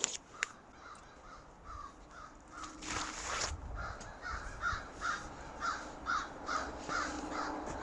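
A bird giving a steady series of harsh, evenly spaced calls, about two to three a second, with a brief louder noise about three seconds in.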